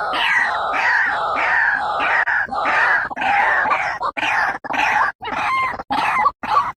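White-breasted waterhen (ruak-ruak) calling: a loud run of harsh, repeated croaking notes, about three a second, breaking into shorter separate calls with gaps near the end.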